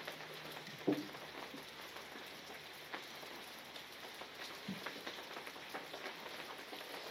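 Faint, steady outdoor background noise with a few soft clicks and taps scattered through it, one a little louder about a second in.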